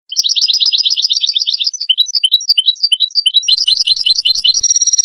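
European goldfinch singing: a fast twittering run of repeated high notes, then a string of separate rising chirps, another quick run, and a buzzy held note near the end.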